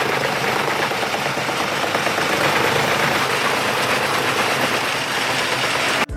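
A machine running steadily, an even, dense mechanical noise that cuts off abruptly just after six seconds.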